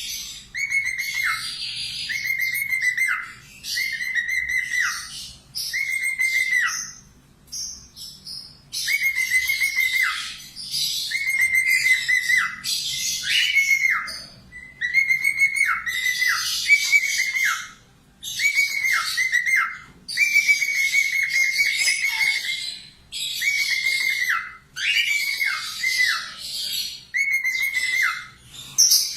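A 'falk' parakeet calling in rapid phrases of repeated whistled notes that hold a pitch and then drop sharply, mixed with harsh chatter, with a short pause every second or two.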